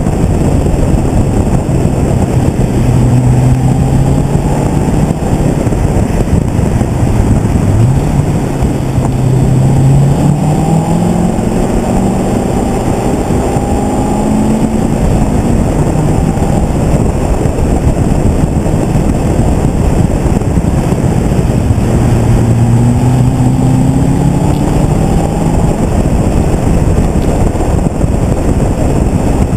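Corvette C6 V8 with aftermarket headers and a Vararam cold-air intake, pulling through the revs. The engine note climbs steadily from about eight seconds in, drops back, and rises again later on. It is heard from outside the car by the front wheel, over heavy wind and road noise.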